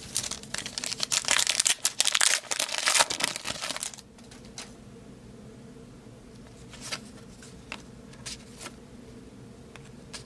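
A foil trading-card pack wrapper being torn open and crinkled, loud and crackling for about the first four seconds. After that come quieter sounds of cards being handled, with a few soft clicks.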